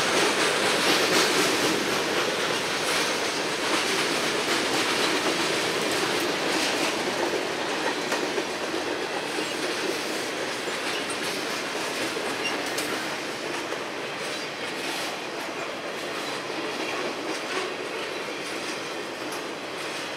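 CSX freight train's boxcars and tank cars rolling past: a steady rumble of steel wheels on rail with faint clicks over the rail joints, slowly getting quieter.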